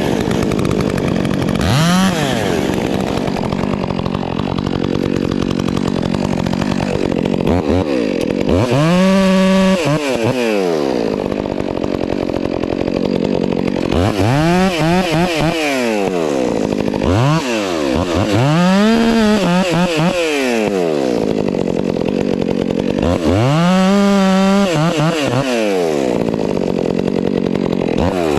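Two-stroke chainsaw cutting wood: the engine revs up to full throttle and drops back toward idle about five times, each cut lasting a couple of seconds, with a final rev-up at the very end.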